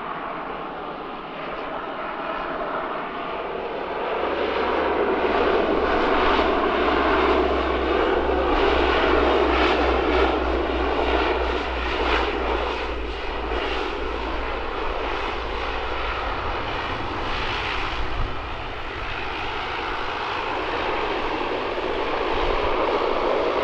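Aircraft engines: a loud, steady rush with a low rumble that swells about four seconds in and stays loud as a plane moves along the runway.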